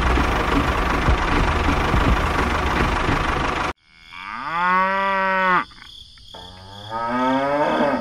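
A steady rattling, clicking running noise from the toy train and tractor cuts off suddenly, and a cow moos twice, each call about a second and a half long, the second rising in pitch.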